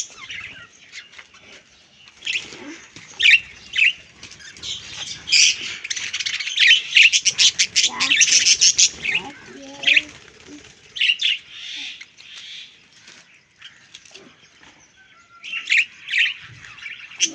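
Parrots calling: repeated short chirps and squawks, with a quick rapid run of calls in the middle.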